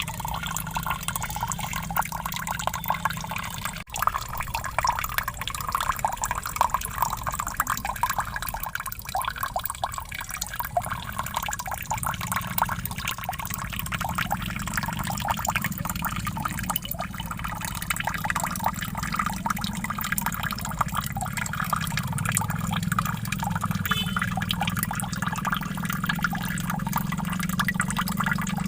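Waterfall: water falling and splashing steadily, with a brief break about four seconds in.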